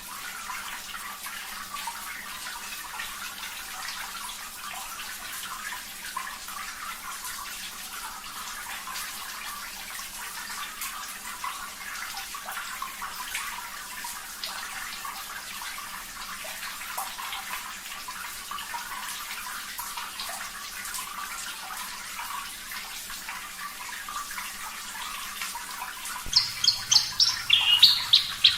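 Steady running, trickling water. Near the end a Javan bush lark starts singing, a fast run of loud, clear pulsed notes.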